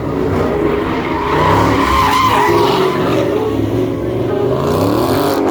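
Car tyres squealing and skidding under a hard-driven engine, as in a burnout or donut, with the squeal strongest about two seconds in and the engine note rising near the end.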